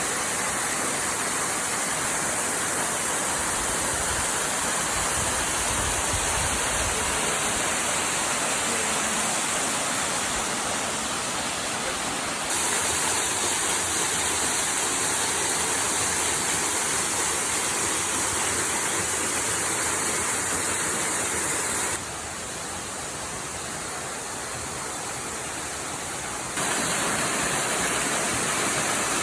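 Waterfall rushing steadily, a dense hiss of falling water with no other sound in it. Its loudness and tone jump abruptly three times: up a little about twelve seconds in, down at about twenty-two seconds, and back up near the end.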